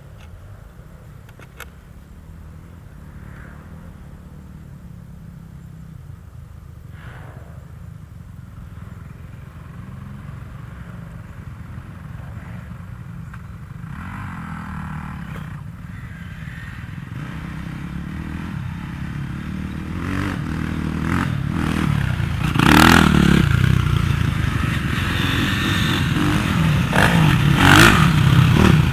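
Motocross motorcycle engines running, growing steadily louder, with a few sharp knocks and clatter over the last several seconds.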